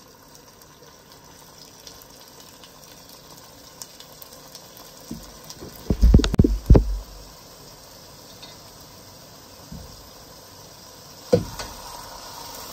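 Pepper-and-tomato sauce frying in oil in a pot, a soft, steady sizzle. A cluster of loud knocks and thumps comes about six seconds in, and another knock near the end.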